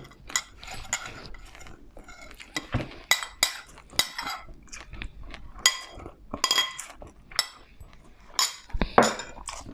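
Eating utensils clinking and scraping against a dish in irregular short clicks while food is served and eaten.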